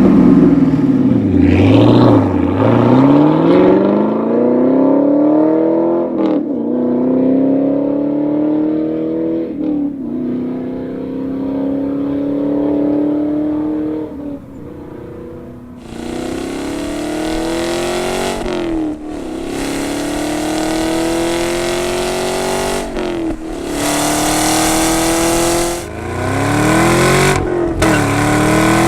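Chevrolet Camaro SS's 6.2-litre V8 through a Borla exhaust, accelerating hard: the note climbs steadily in pitch and drops back at each upshift, several times over.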